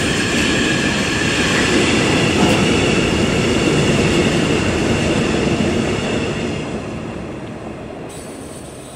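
Container freight train rolling past on the rails, a dense rumble of the wagons with a high wheel squeal over it in the first half. The sound dies away steadily over the last few seconds.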